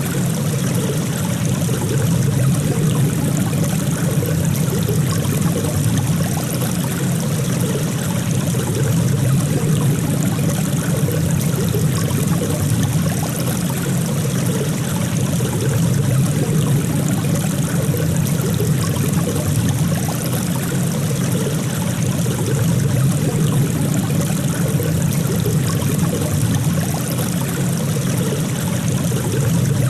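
Steady flowing water, a stream's continuous trickle and rush, even throughout.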